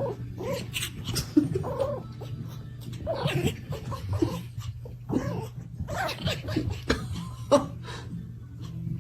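Small puppies making short play vocalizations that rise and fall in pitch, many in quick succession, over a steady low hum.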